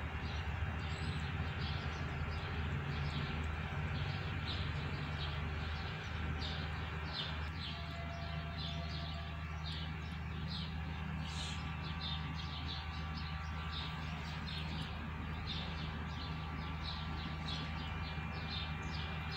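Small birds chirping, short high calls repeating a few times a second, over a steady low hum.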